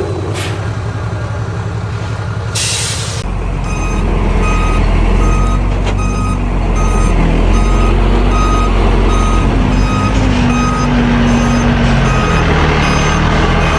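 Dump truck's air brakes releasing with a short hiss about three seconds in, then its diesel engine pulling harder as the truck backs up, its reversing alarm beeping nearly twice a second.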